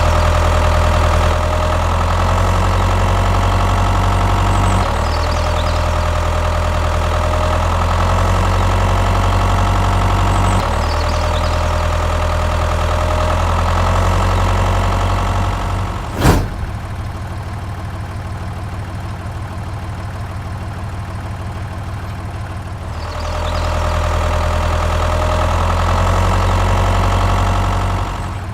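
Tractor engine idling steadily, as a recording that repeats itself about every six seconds. About sixteen seconds in there is a sharp click, then the engine sound is quieter for some seven seconds before the louder idling returns.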